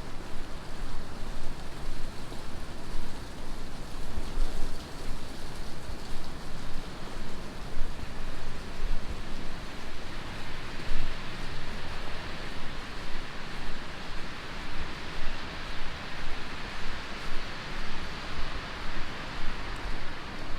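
Heavy rain falling on a city street, a steady hiss with no distinct events, growing brighter and fuller about halfway through.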